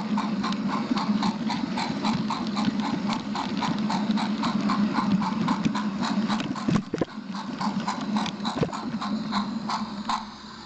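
Small train running along its track: a steady motor hum with rapid, even clicking of the wheels over the rail joints, about five clicks a second, and a couple of low knocks. The clicking stops near the end.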